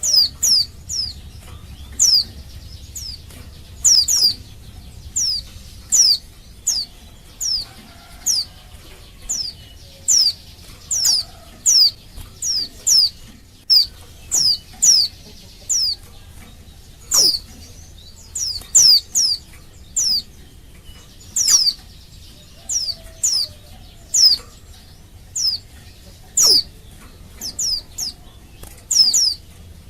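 Female pleci (white-eye, Zosterops) giving short, high, down-slurred call notes, repeated one to two times a second and often in quick pairs: the calling of a hen in breeding condition, used to draw males to answer.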